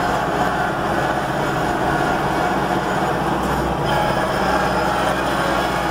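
A vehicle's engine running steadily with a low, even drone, heard from inside its cab.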